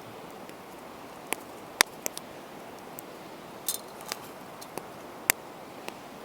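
Wood campfire crackling: sharp, irregular pops and snaps, one a quick little rattle about halfway through, over a steady soft hiss.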